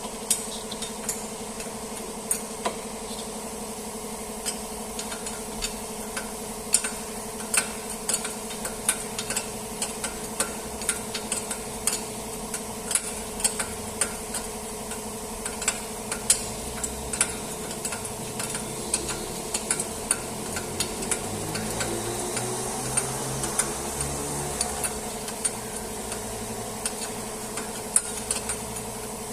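Irregular metallic clicks and taps of hand tools working on a car's front-suspension ball joint, over a steady background hum. About 20 seconds in, a low sound rises and falls for a few seconds.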